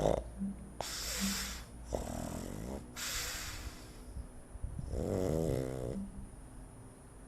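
Sleeping dog snoring: a slow series of noisy breaths, with a rattling snore about two seconds in and a longer, wavering snore about five seconds in.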